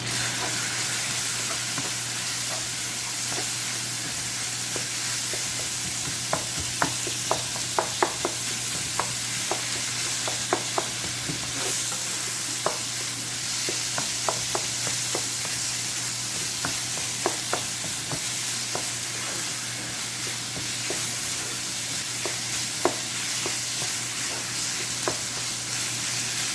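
Minced chicken frying with garlic and red chili in hot oil, a steady sizzle, as it is stirred, with sharp clicks of the utensil against the pan coming in clusters through the middle.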